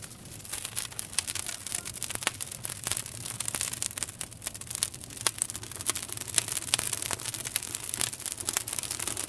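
Campfire wood burning, with dense crackling and frequent sharp pops over a steady hiss.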